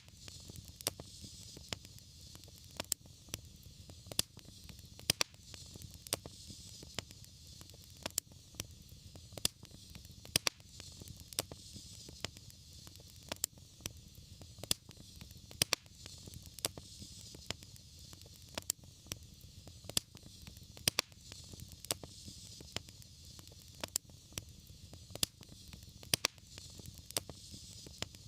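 Wood fire crackling and popping in a fireplace, with sharp irregular pops several times a second over a steady low rumble and soft hiss of the flames.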